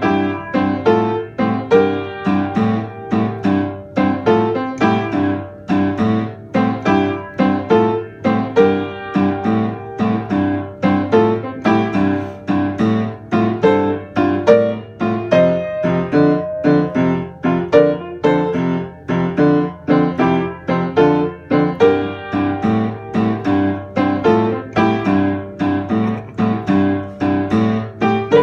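Piano playing a rhythmic piece at a steady pace, several notes and chords a second.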